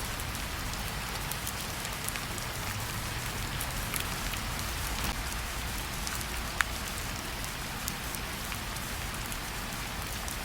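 Steady rain falling, with a patter of individual drops ticking through it and one sharper drop tick about six and a half seconds in.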